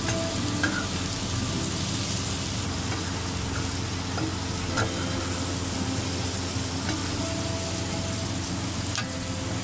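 Sliced onions and green chillies sizzling in hot oil on an iron tawa, stirred with a metal slotted spoon that scrapes and ticks against the pan a few times.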